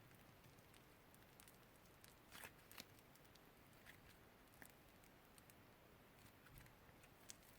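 Faint slime being worked by hand: scattered small clicks and wet crackles, with one louder crackle about two and a half seconds in.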